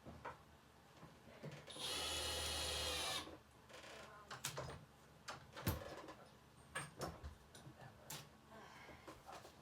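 A power drill runs steadily for about a second and a half, driving a small screw. It is followed by scattered sharp clicks and knocks of handling wood and hardware.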